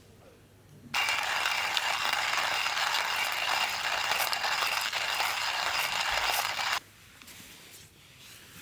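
Dense, steady cicada buzzing that cuts in sharply about a second in and stops just as sharply about six seconds later.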